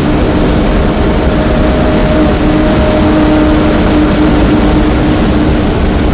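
BMW E30 325is with a swapped-in N52 straight-six engine held at steady high revs under full throttle at around 125 mph. Its note stays at one unchanging pitch over heavy wind and road noise, heard from inside the cabin.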